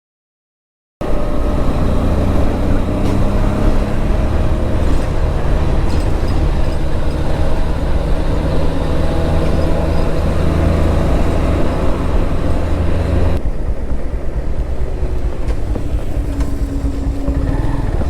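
Motorcycle engine running steadily while riding, with wind and road noise over the rider-mounted action camera; it cuts in suddenly about a second in, and the wind rush drops off about three quarters of the way through.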